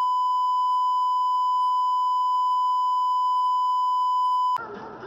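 Electronic beep: one steady high tone held without change for several seconds, cutting off abruptly about four and a half seconds in, where music begins.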